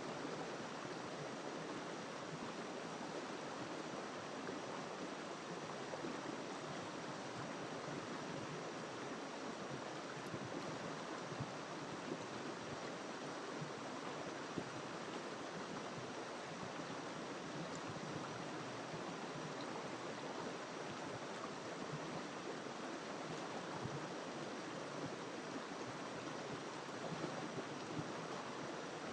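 River water flowing and rushing over stones, a steady, even rush with no pauses.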